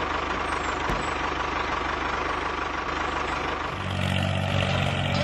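Tractor engine sound effect running steadily. About four seconds in, a louder engine with a deeper, steady hum takes over.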